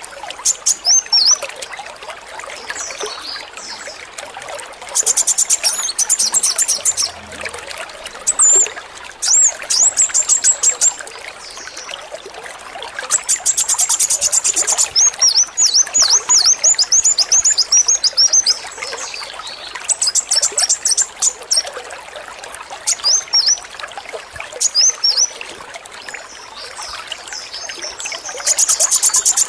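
Male kolibri wulung sunbird singing a series of high, quick down-slurred notes broken by bursts of very fast rattling trill, the rapid-fire song type hobbyists call "AK-47". Water trickles steadily underneath.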